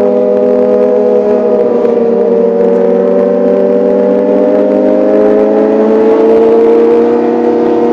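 Kawasaki ZX-25R's 250 cc inline-four engine running high in its rev range with a loud, high-pitched, steady note. The pitch dips slightly about two seconds in, then climbs gradually toward the end.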